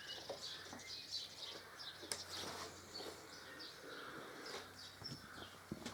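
Birds chirping faintly in the background in many short, separate calls, with a single soft click about two seconds in.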